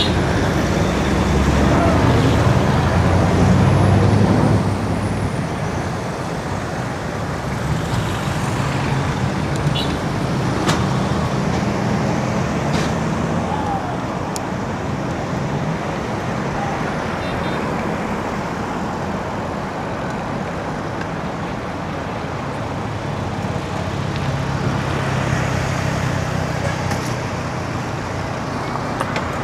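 Road traffic heard from a bicycle on a city street: a steady traffic noise with the engines of passing motor vehicles, loudest in the first few seconds and again near the end.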